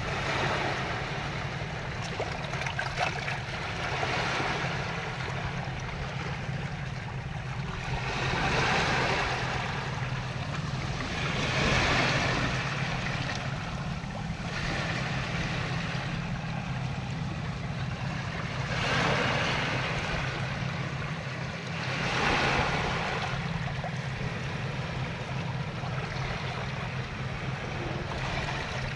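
Calm ocean waves breaking and washing in, a hissing surge every few seconds, over a steady low rumble.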